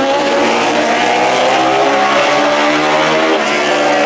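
Several superbike racing motorcycle engines running at high revs together, their overlapping pitches shifting up and down as the bikes pass.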